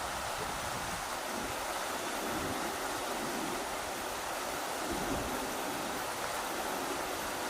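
Rushing river water, a steady even hiss, with low rumbling gusts of wind.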